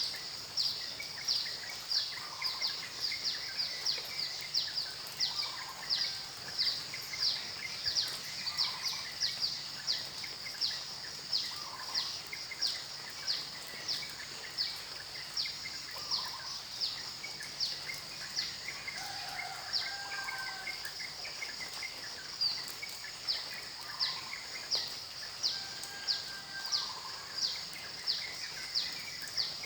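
Outdoor nature ambience: a rapid, even series of high, short, downward-sweeping chirps, about two a second. Occasional lower bird calls come through behind them, over a steady faint hiss.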